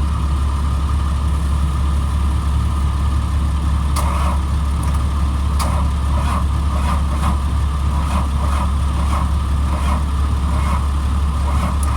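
Caterpillar 3126 diesel engine of a school bus running on starting fluid with its fuel tank empty, a steady low drone with irregular sharper bursts from about four seconds in.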